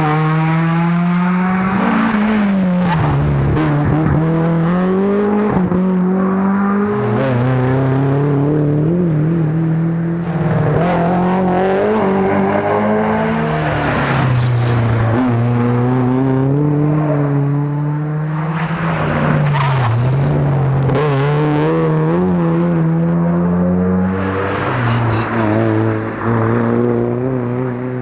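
Rally car engines revving hard through the bends of a winding stage, the pitch climbing under acceleration and dropping sharply at each gear change and braking, over and over.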